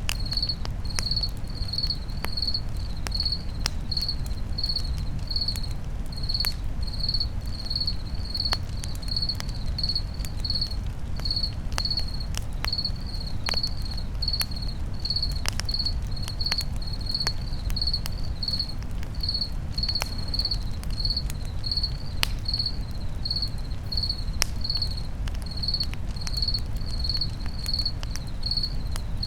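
Crickets chirping steadily at about two chirps a second, over a campfire crackling with scattered sharp pops and a steady low rumble.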